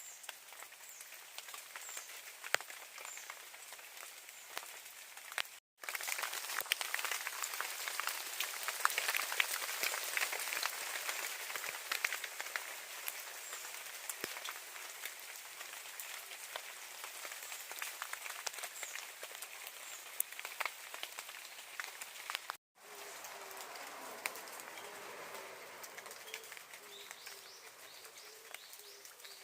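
Rain falling and pattering, with many small drops ticking close by. It breaks off suddenly twice. Near the end a faint, low, short call repeats about once a second.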